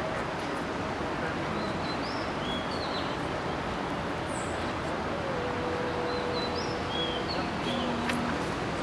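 Small birds chirping repeatedly, short high notes scattered throughout, over a steady background hiss. A faint steady tone sounds for about two seconds midway.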